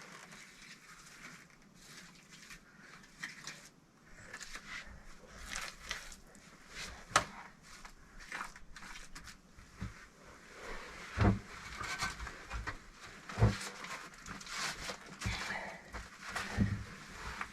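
Irregular light knocks and scrapes of bricklaying for a brick stove: bricks set down and handled, with a few sharper knocks.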